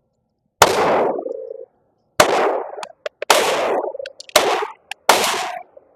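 Five shots from a Glock G44 .22 LR pistol firing Federal 40-grain rounds, spaced about a second apart, each with a short ringing echo. The pistol cycles each round without a malfunction.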